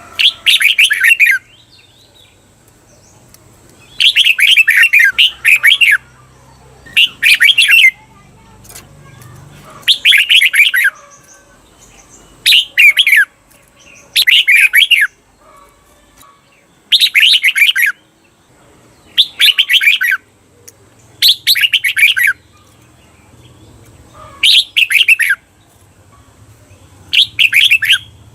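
Red-whiskered bulbul singing: loud short phrases of rapid, quickly sliding whistled notes, one every two to three seconds, several of them given twice back to back as the doubled 'เบิ้ล' song.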